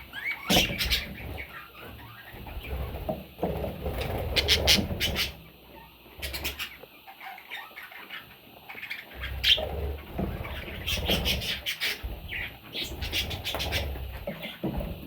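Baby parrots chirping, among repeated scratching, rustling and knocking noises.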